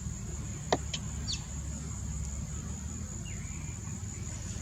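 A few short, high bird chirps, including a quick falling note and a brief rising call, over a steady high-pitched insect drone and a low outdoor hum. There is one sharp click about a second in.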